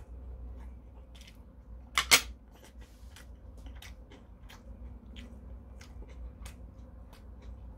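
A person chewing a mouthful of food close to the microphone, with short wet mouth clicks and smacks a few times a second. About two seconds in comes a sharp double clack, much louder than the chewing.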